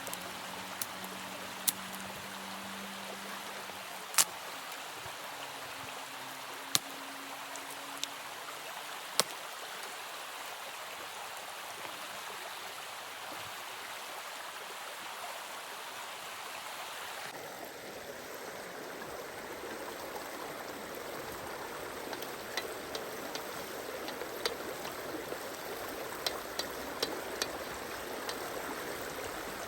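Steady rush of running water, with a few sharp cracks every couple of seconds early on and lighter ticks later. The sound changes abruptly about 17 seconds in, as at a cut, and runs a little louder afterwards.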